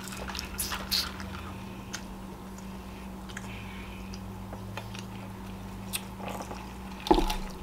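A person chewing and biting fast food close to the microphone, with scattered small wet clicks and crunches. One louder knock comes near the end, over a faint steady hum.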